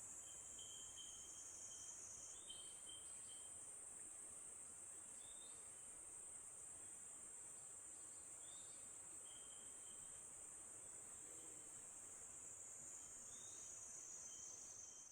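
Faint, steady high-pitched buzzing of a cicada singing, growing a little stronger about two seconds in, with a few short high chirps over it.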